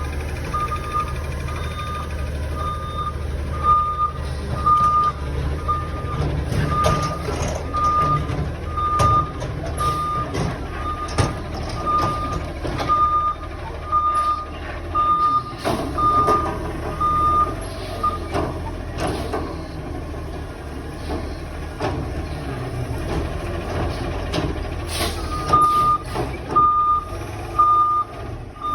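Front-loader garbage truck's diesel engine running, with its backup alarm beeping steadily; the beeping stops a little past halfway and starts again near the end. Loud clanks and bangs come from the container and recycling being lifted and dumped.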